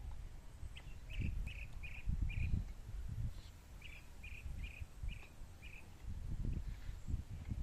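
A bird calling in two runs of short repeated notes, four or five notes in each run about a third of a second apart, over irregular low rumbling noise.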